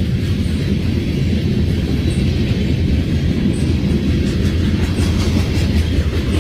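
CSX freight train rolling past with a steady low rumble.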